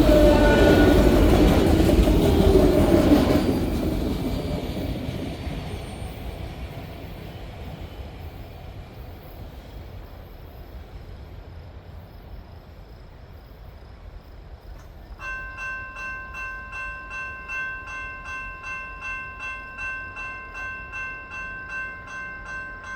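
The last freight cars of a long manifest train roll past with wheel squeal and rail noise, fading away over the first few seconds and leaving a low rumble. About two-thirds of the way in, a repeating electronic ding starts, about one and a half strikes a second, and runs until near the end.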